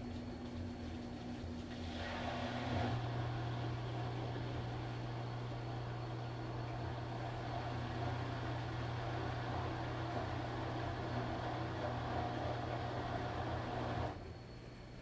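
Washing machine running through its wash cycle, its motor turning the drum with a steady low hum. The hum builds about two seconds in and cuts off suddenly near the end, leaving a quieter background hum.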